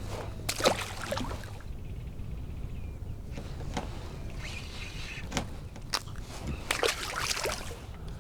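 Water sloshing and trickling around a kayak, with scattered clicks and short rustles of handling in the boat.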